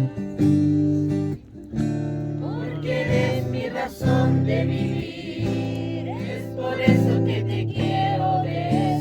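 Acoustic guitar strummed in steady chords, with a voice singing over it from about two and a half seconds in.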